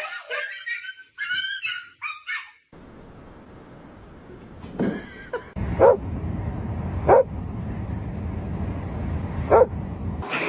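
A dog whining and yipping in high, wavering calls, then a dog giving four short barks spaced one to two and a half seconds apart over a steady low hum.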